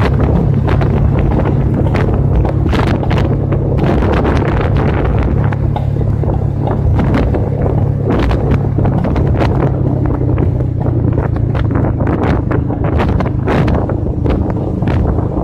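Wind buffeting the microphone of a moving motorcycle, a steady rush with frequent gusty thumps, over the low, even drone of the engine at cruising speed.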